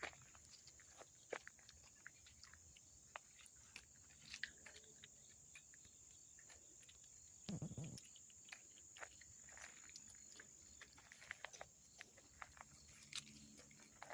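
Faint outdoor ambience: scattered small clicks and crackles over a steady high insect-like drone that fades out about eleven seconds in, with one brief low thump about seven and a half seconds in.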